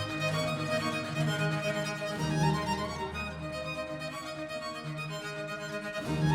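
Recorded instrumental music with a violin melody over low sustained bass notes, played back through Elfton Vegas II four-way loudspeakers and picked up in the room by microphones.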